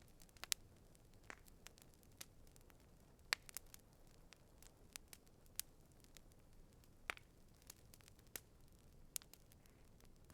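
Campfire crackling: irregular sharp pops and snaps from the burning wood, a few much louder than the rest, over a faint low hiss.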